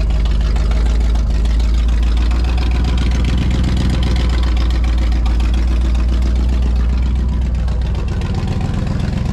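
1979 Ford F150's carbureted V8 idling steadily as it warms up, its tone easing slightly about eight seconds in.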